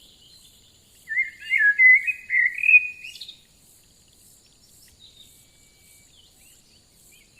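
A songbird sings one warbling phrase of about two seconds, starting about a second in, over a faint, steady, high-pitched insect trill.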